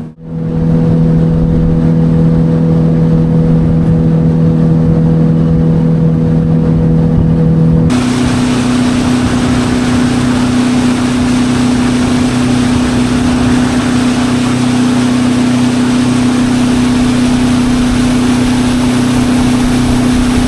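Small boat's outboard motor running steadily at cruising speed, a constant drone. About eight seconds in it switches abruptly to a slightly different engine note with more wind and water hiss.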